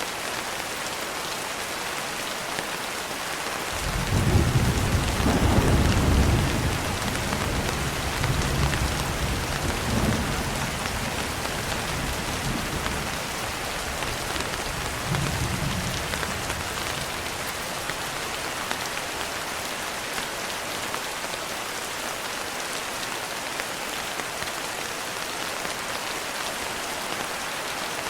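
Steady rain falling throughout. About four seconds in, a low rolling rumble of thunder sets in, swells a couple more times and fades out midway.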